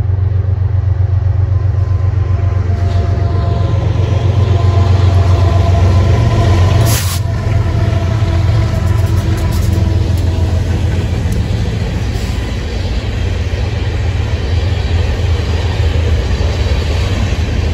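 Freight train led by BNSF diesel locomotives passing close by, their engines giving a loud, steady low rumble that peaks as they go past, with one sharp knock about seven seconds in. Then the train's hopper cars roll by with steady wheel-on-rail noise.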